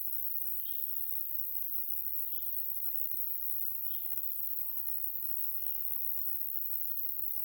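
A steady high-pitched chirring of summer insects, such as grasshoppers or bush-crickets, in a grassy pasture. Over it, a bird repeats a short call about every second and a half.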